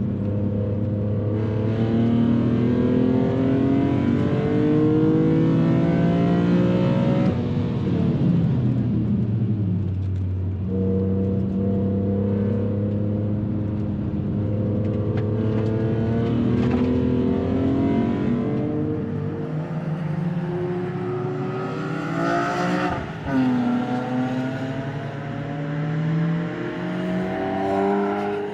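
BMW E46 M3 CSL's 3.2-litre straight-six engine driven hard on track: long rising runs of revving under acceleration, broken by falling drops in pitch as the driver lifts off and brakes, and a quick sharp break late on like a gear change before it climbs again.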